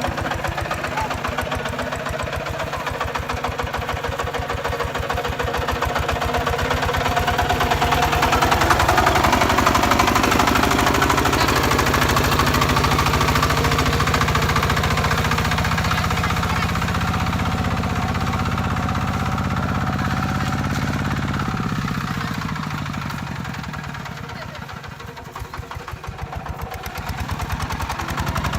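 Kubota RT140 single-cylinder diesel engine running with a rapid, even chugging. It speeds up and gets louder in the first third, then drops off about 22 seconds in, and picks up again near the end.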